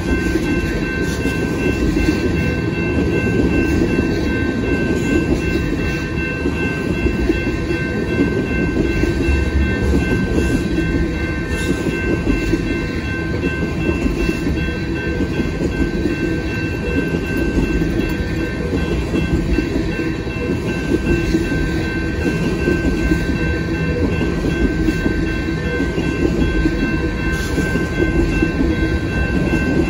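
Loaded tank cars of a freight train rolling steadily past, a continuous rumble of steel wheels on rail, with a few faint steady high-pitched tones ringing above it.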